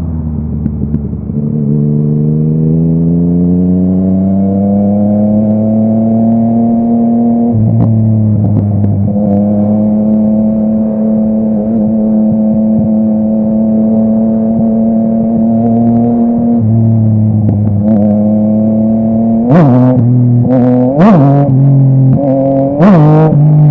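Yamaha MT-09's crossplane three-cylinder engine through a full Akrapovic exhaust, pulling steadily through the gears with two drops in pitch at gear changes. Near the end come several quick throttle blips, each with a sharp crack from the exhaust.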